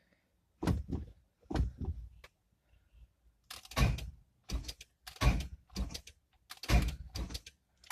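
A car's starter clunking heavily about six times as the key is turned, without the engine turning over: the engine seizes against the starter. Taking off the serpentine belt later let it crank, pointing to drag from the belt-driven accessories.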